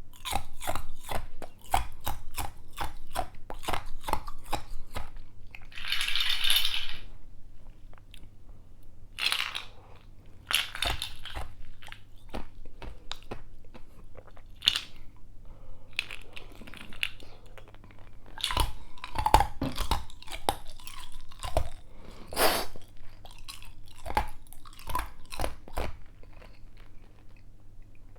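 Ice being crunched and chewed up close: a quick irregular run of sharp cracking bites, with a brief hiss about six seconds in.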